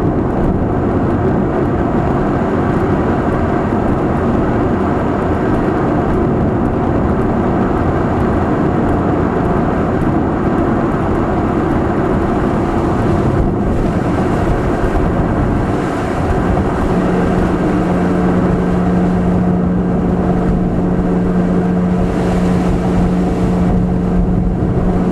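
Nissan March 12SR's 1.2-litre four-cylinder engine droning through a Kakimoto aftermarket exhaust while the car is driven, with road noise, heard from inside the car. The note falters briefly about two-thirds of the way in, then settles into a steady, lower drone.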